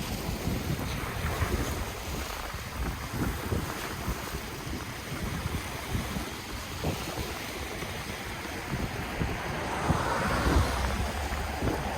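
Ocean waves washing onto the shore, with wind buffeting the microphone. A wave surges in louder about ten seconds in.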